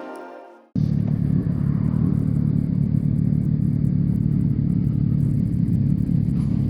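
Background music fades out, then an abrupt cut less than a second in to a motorcycle engine running at a steady speed: a low, even rumble under a noisy rush.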